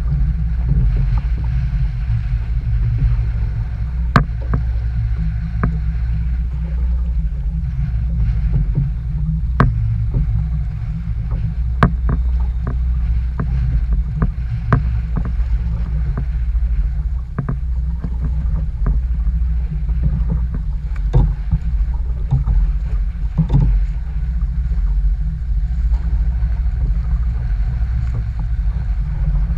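Steady low rumble of strong wind, with scattered sharp knocks and taps.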